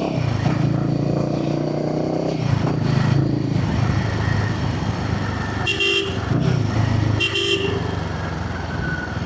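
Royal Enfield Himalayan 450's single-cylinder engine running through a customized barrel exhaust, its pitch rising and falling with the throttle in traffic. A vehicle horn honks twice near the middle, about a second and a half apart.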